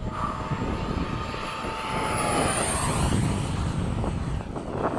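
FMS 70mm electric ducted-fan model jet making a low pass: a rushing, whining fan sound that grows louder and drops in pitch as it goes by, loudest about two to three seconds in.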